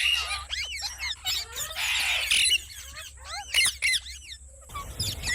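Parrot calling: a rapid string of short up-and-down chirps and squawks, with a harsher screech about two seconds in.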